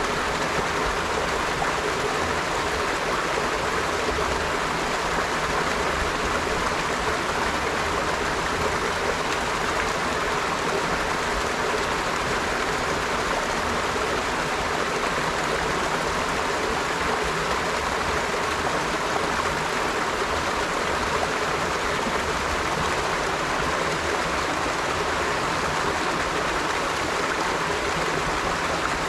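River water flowing steadily over rocks, a continuous even rush without breaks.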